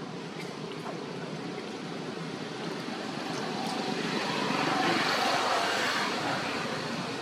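A vehicle passing by: a steady rumble that swells to its loudest about five seconds in and then fades.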